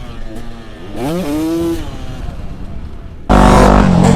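250 cc two-stroke dirt bike engine revving, its pitch climbing quickly about a second in and then holding. Near the end the sound suddenly jumps much louder, full throttle with heavy wind noise.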